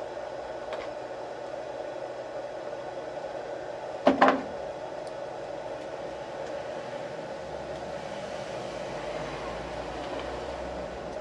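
A steady background hum, broken about four seconds in by one brief, loud clatter or knock.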